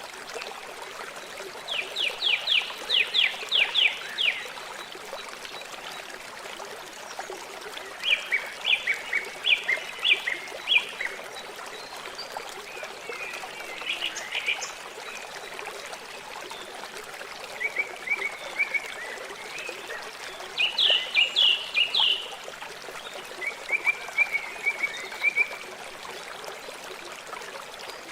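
River water flowing with a steady rushing trickle. Over it a bird calls several times, each call a quick run of short, sharp notes; these calls are the loudest sounds.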